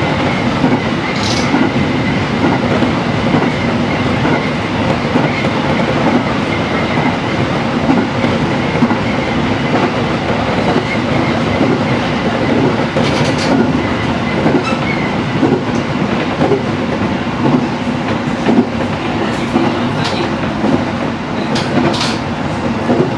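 Train running along the line: a steady rumble of wheels on rail with clickety-clack, and a few brief high squeaks about a second in, near the middle and twice near the end.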